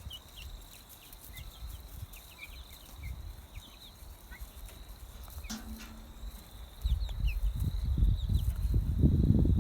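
Farmyard sounds: scattered short high chirps over a steady high hum, one brief low call just past halfway, then a loud low rumbling noise from about seven seconds in.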